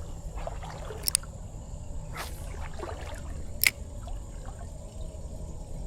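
Creek water sloshing and trickling around legs while wading, with two sharp clicks about a second and three and a half seconds in.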